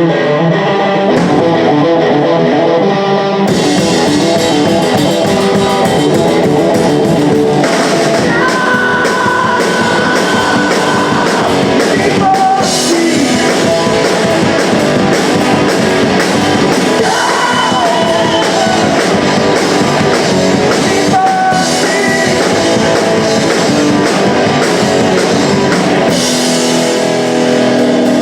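Punk rock band playing live, loud: electric guitar alone at first, then drums and the full band come in about three seconds in, with singing.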